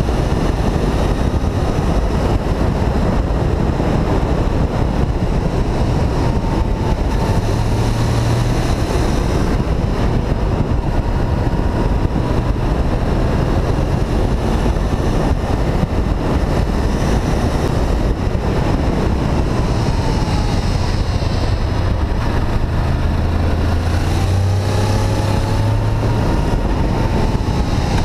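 Honda VFR800 VTEC's V4 engine running on the move under heavy wind noise, its note wavering up and down with the revs.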